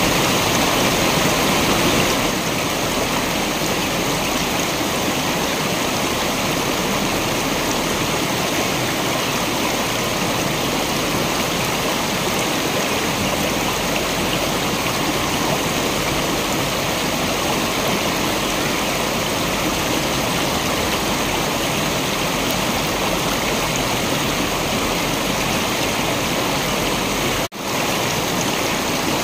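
Waterfall water rushing in a steady, even wash. The sound cuts out for a split second a couple of seconds before the end.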